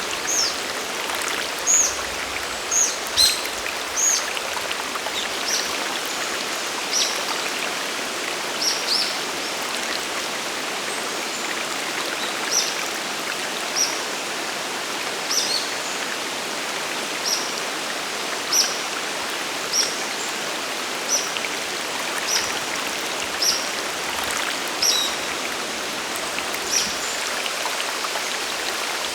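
Steady rushing of a mountain waterfall and stream, with a bird repeating a short high call about once every second or so over it.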